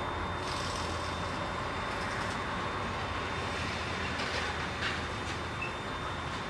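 Loud in-cab noise of a container truck on the move: a steady low diesel engine drone mixed with road noise, with a few brief higher-pitched noises over it.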